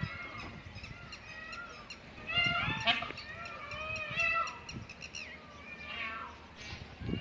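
A flock of wild peafowl calling: many short, arched calls overlap, with the loudest cluster about a third of the way in.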